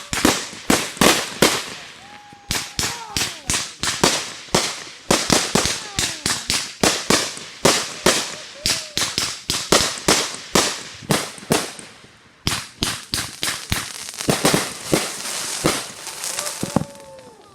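Fireworks going off in a rapid series of sharp bangs, several a second. The bangs ease briefly twice and then resume, ending just before the close.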